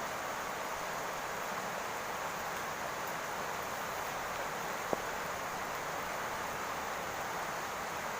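Steady rain falling on a roof, an even hiss of drops, with a single short tick about halfway through.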